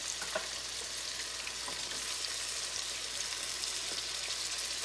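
Meat chunks with ginger-garlic and whole spices sizzling steadily in hot oil in a non-stick wok, with sliced onions tipped in near the end. A few faint clicks.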